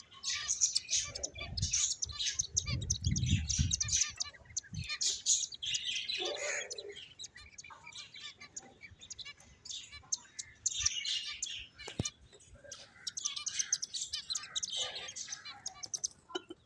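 Several pet finches chirping, a steady stream of short, high chirps. Some low rumbling can be heard in the first few seconds, and there is a single sharp click about twelve seconds in.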